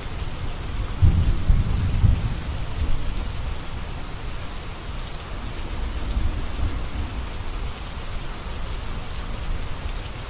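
Steady rainfall with thunder rumbling low underneath, swelling about a second in and fading over the next few seconds.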